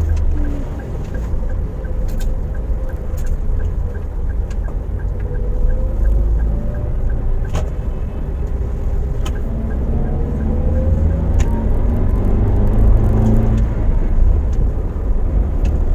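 Car driving, heard from inside the cabin: a steady low road and engine rumble, with the engine note dipping and then rising again as it picks up speed about two-thirds of the way through. A light regular ticking runs through the first half, with a few sharp knocks.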